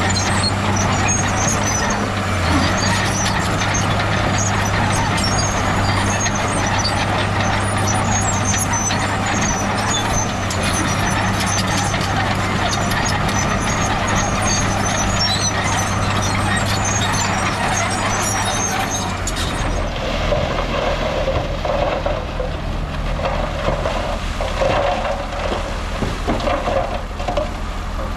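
Heavy diesel earthmoving machinery running under load, a steady low engine note with metallic clatter. About 19 seconds in the engine note drops and the sound becomes rougher and more uneven.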